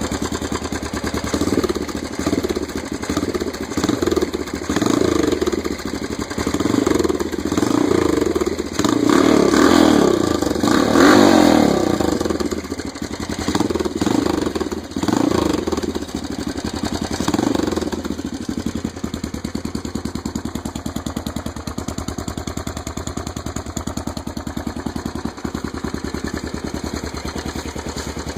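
Yamaha XT500's single-cylinder four-stroke engine running just after a cold start, revved in repeated blips of the throttle for the first 18 seconds or so. It then settles to a steady, even-beating idle through its Supertrapp exhaust.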